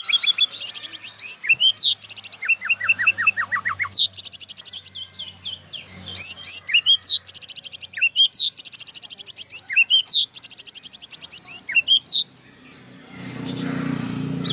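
White-rumped shama (murai batu) singing a fast, varied stream of chirps, whistled sweeps and rattling trills, the full repertoire of mimicked song prized in a 'gacor' bird. The song stops near the end, and a low rumbling noise rises in its place.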